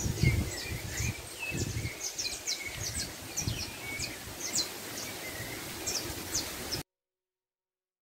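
Birds chirping and singing, many short high chirps over a lower wavering warble, with low thumps and rustling on the microphone. All sound cuts off abruptly near the end.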